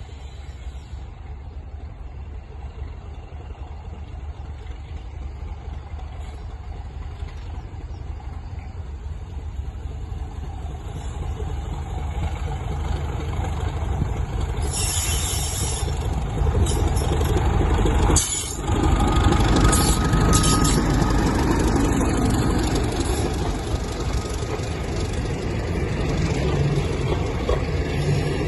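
Diesel locomotive running, its low rumble growing steadily louder, with a short burst of hiss about halfway through.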